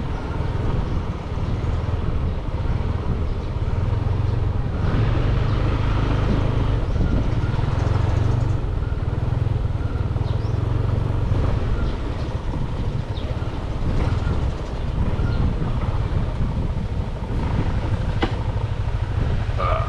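Motorbike engine running steadily while riding, a continuous low hum under road noise.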